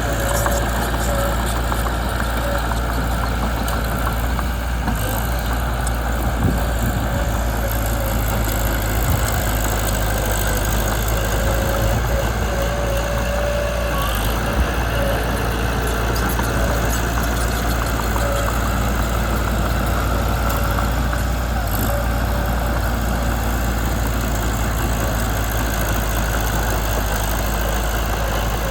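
Mitsubishi BD2 small bulldozer's diesel engine running steadily at an even pitch.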